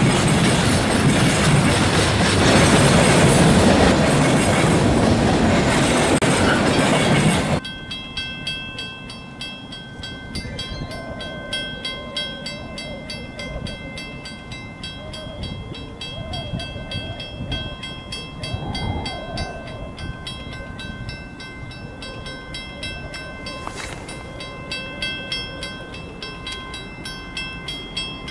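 Freight train of covered hopper cars rolling past close by, which cuts off abruptly about seven and a half seconds in. After that, a railroad crossing bell rings steadily in quick repeated strokes, while an approaching diesel freight sounds its horn in the distance.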